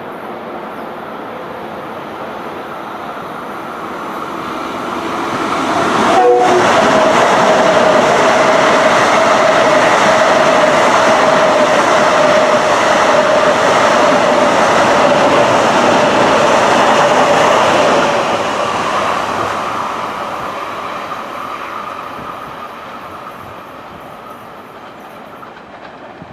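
A Long Island Rail Road train approaches, passes close at speed and fades away, with loud rumble and wheel noise on the rails. About six seconds in there is a short chord blast on the horn, then a steady whine while the train goes by.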